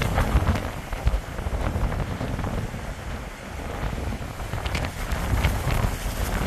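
Strong typhoon wind gusting and buffeting the microphone, a loud low rumble that swells and eases in gusts.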